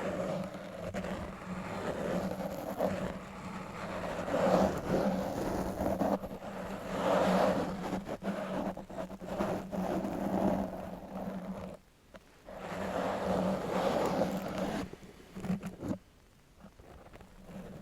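A long metal nail scratching and rubbing against a surface close to the microphone, in swelling, repeated strokes. The strokes break off briefly about twelve seconds in and fade to quieter scratching near the end.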